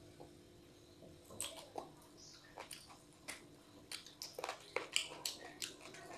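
A child's wet chewing and lip-smacking while eating chicken curry and rice by hand, gnawing chicken off the bone: irregular sharp smacks and clicks that come thickest near the end.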